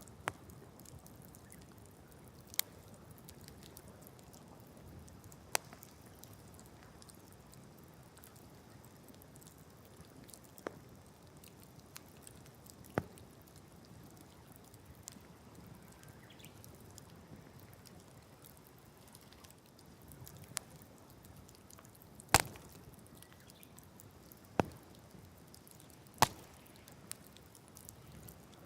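Wood campfire crackling: sharp, irregular pops and snaps of burning wood over a faint steady hiss, with the loudest snaps near the end.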